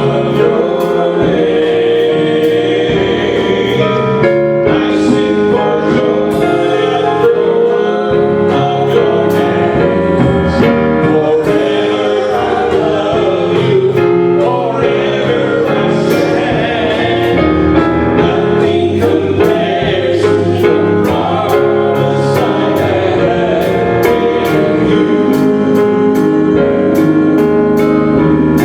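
Congregational gospel music: a choir or group of voices singing a hymn with instrumental accompaniment and a steady beat.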